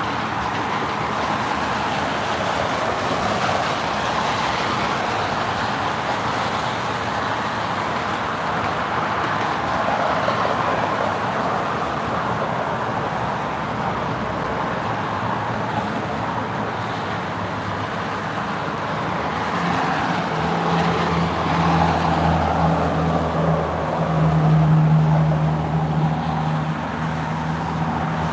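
Road traffic: a steady wash of tyre and engine noise. From about twenty seconds in, a vehicle engine's low steady hum comes to the fore and grows louder for a few seconds.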